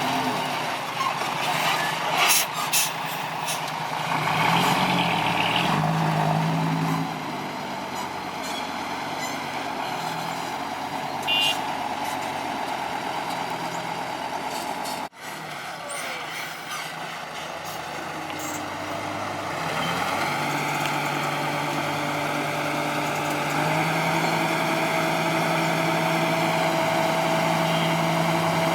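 Diesel engines of a Kobelco SK200-8 excavator and a dump truck running steadily, with a few sharp knocks about two to three seconds in. The sound drops out briefly about halfway, and a steady whine joins the engine near the end.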